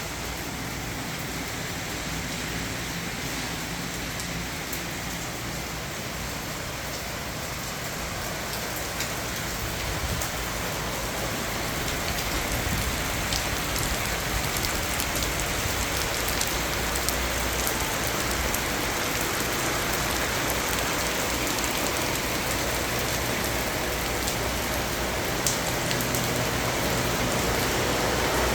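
Steady rain falling, with scattered drop ticks over a constant hiss and a low steady hum underneath; the rain grows slowly louder.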